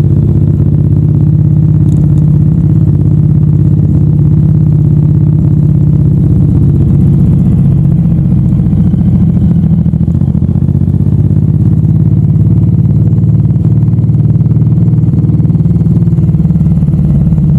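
Suzuki M109R's big V-twin engine running steadily under way, heard from a handlebar-mounted camera, dipping slightly about ten seconds in.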